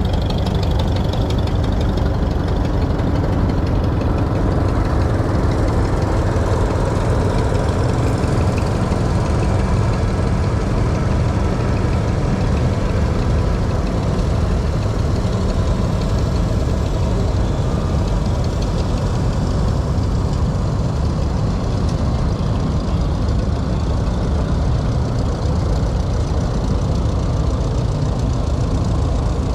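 Antique engine idling steadily, with energy concentrated low.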